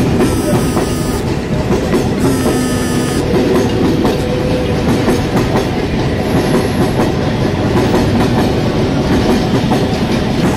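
Bombardier electric multiple unit local train pulling out past the platform, a steady rumble with its wheels clattering over the rail joints. Two short high-pitched tones sound in the first three seconds.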